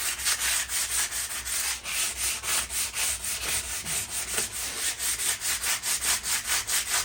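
Sandpaper rubbed back and forth by hand over rusted metal patio furniture, in quick, even strokes of about five a second, scouring off the surface rust.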